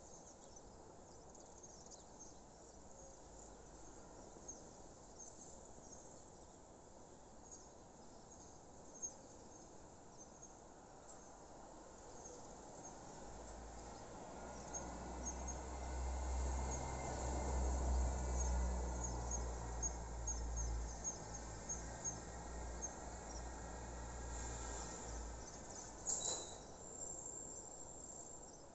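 Crickets chirping steadily in a rapid high pulse. Midway a low engine-like rumble swells up and fades away again, like a distant vehicle passing, and near the end there is one brief sharp high sound.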